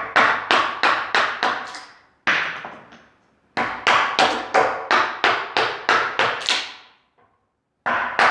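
Wooden mallet striking a chisel handle as the chisel cuts chunks out of a wooden post. It comes in quick runs of strikes, about three to four a second, with a short pause a little after two seconds and another about seven seconds in.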